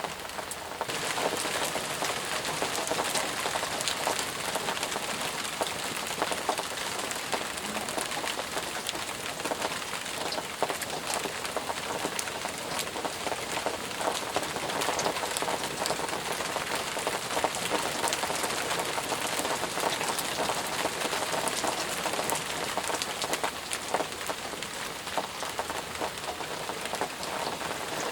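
Intense, steady rain: a constant hiss with many single drops pattering sharply through it. It grows slightly louder about a second in.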